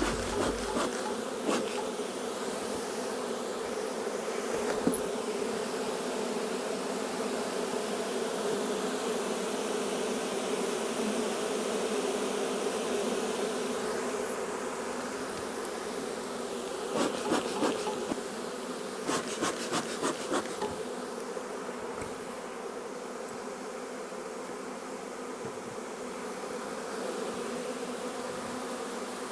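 A large swarm of honey bees buzzing as one steady hum, with a few short knocks partway through.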